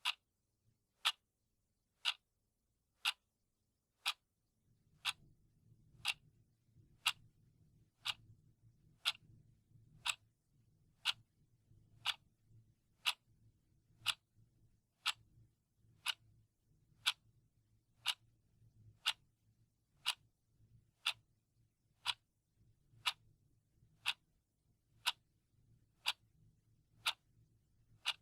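Clock ticking steadily, one sharp tick a second, as a countdown timer's sound. A faint low hum comes in underneath about four seconds in.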